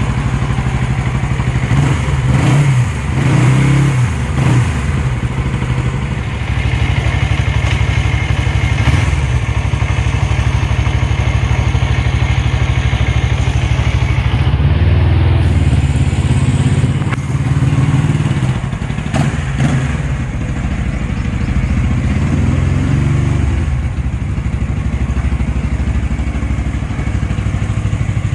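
Suzuki GS400E's twin-cylinder engine running through its exhaust, mostly idling, with throttle blips a couple of seconds in and again past the middle. Really loud, with a Harley-like sound.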